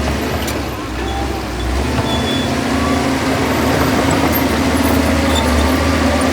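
Heavy diesel engine of earthmoving machinery running steadily, growing a little louder about halfway through.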